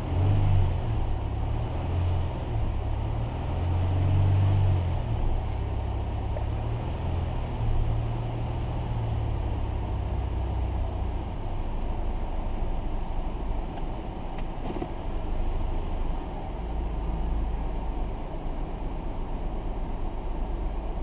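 Nissan 3.5-litre V6 engine running at idle, a steady low rumble.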